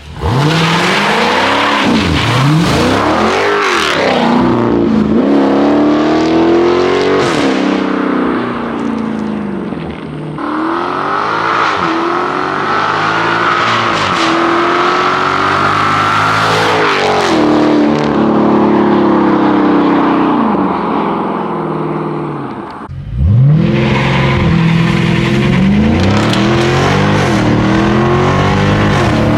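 2023 Chrysler 300C's 6.4-litre HEMI V8 running with its mufflers deleted, accelerating hard: the exhaust note climbs in pitch through each gear and drops back at every upshift. Just before the end it briefly falls away, then pulls hard again from low revs.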